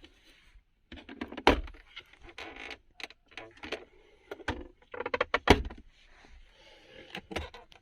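Hands working the plastic fittings of a car's interior, such as the console compartments and switches: a run of sharp clicks, clacks and rattles, loudest about a second and a half in and again about five and a half seconds in.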